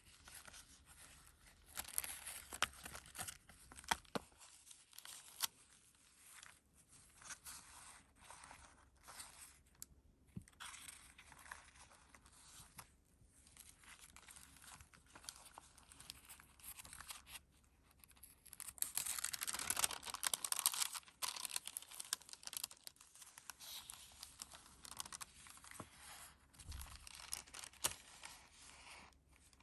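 Paper pages of a handmade junk journal being turned and handled: a run of short rustles and crinkles, with a longer, louder rustle about two-thirds of the way through.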